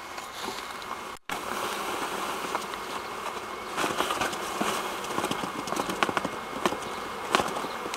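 Honeybee swarm buzzing steadily, with scattered knocks and clicks from handling around the hive; the sound drops out for an instant about a second in.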